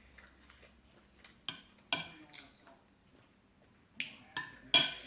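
Sharp clicks and clinks of eating utensils against dishes, scattered, with a louder cluster near the end.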